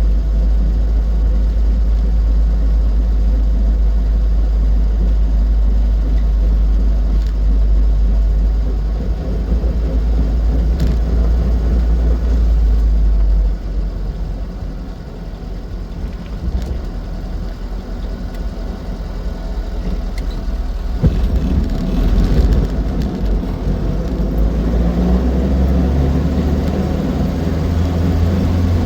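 Austin 7 car driving along, its small side-valve four-cylinder engine and running gear giving a steady low rumble. The rumble eases off about 13 seconds in, and builds again after a single sharp click about 21 seconds in.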